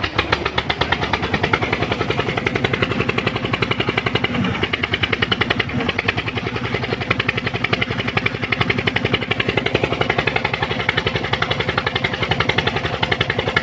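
An engine running steadily close by with a rapid, even chugging pulse.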